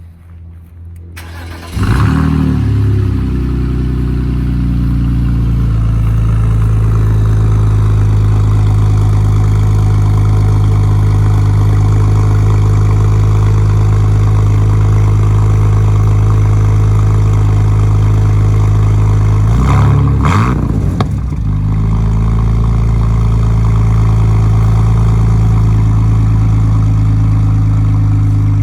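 A BMW Z3's straight-six engine running loudly at steady revs, starting suddenly about two seconds in. About twenty seconds in the revs dip and rise briefly, then settle back to the same steady note.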